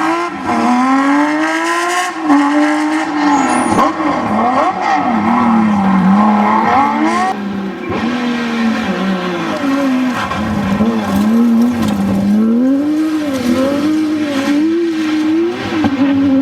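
Porsche 911 GT3 RS flat-six engine at full race revs on a rally stage, its pitch climbing and dropping again and again through gear changes and lifts. The sound cuts off abruptly at the end.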